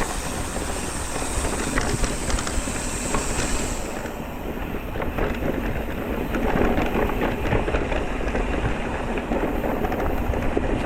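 Electric mountain bike rolling over a rough trail: a steady rumble of tyres and wind on the microphone, with many small rattles and clicks from the bike.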